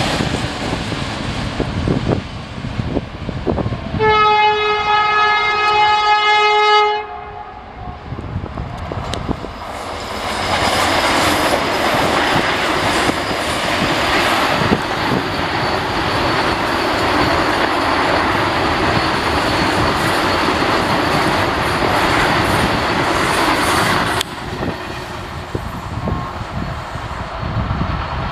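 The last wagons of a freight train roll past with wheel-on-rail rumble, then a loud train horn sounds for about three seconds and cuts off sharply. Next, a Vande Bharat electric multiple-unit train passes at speed with a steady rush of wheel and rail noise, which drops away abruptly near the end.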